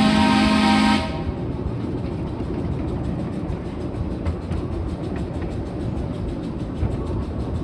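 A locomotive whistle blows with a steady multi-note tone and cuts off about a second in, leaving the steady rumble of riding train cars rolling along the track with light clicking from the rail joints.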